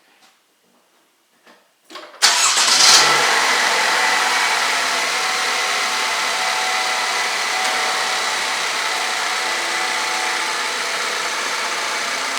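2014 Chevy Malibu's 2.5 L Ecotec four-cylinder engine starts suddenly about two seconds in, revs up briefly, then settles into a steady idle. This is the first start after an oil change, on fresh 5W-20.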